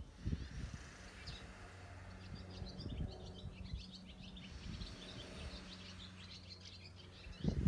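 Small songbirds chirping in quick runs of short notes, over a low, steady hum of outdoor background noise.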